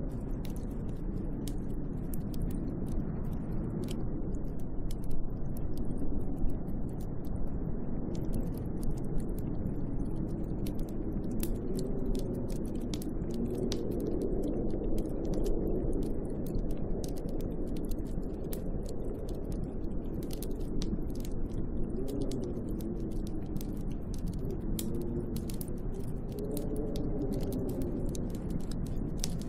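Snowstorm wind howling, a steady low rush with a whistling tone that wavers up and down in pitch, strongest midway. Many small sharp ticks run through it.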